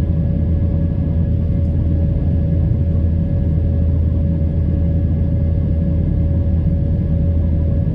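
Steady cabin noise of an Airbus A319 airliner with its engines running: a loud, even rumble with a steady thin whine on top.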